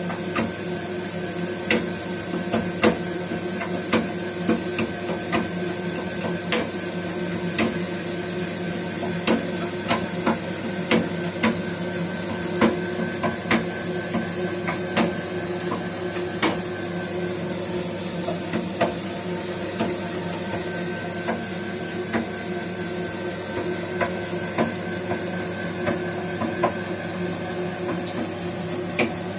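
Baxi gas boiler running with a steady hum, overlaid by irregular sharp knocks, about one or two a second at uneven spacing. The owner puts the knocking in the heat exchanger.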